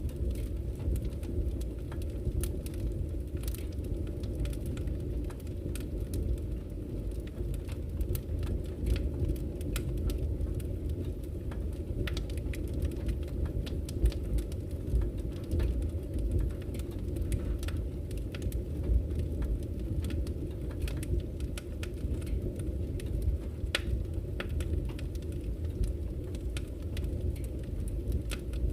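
Wood campfire crackling, with frequent sharp pops and snaps, over the steady low rush of flowing river water.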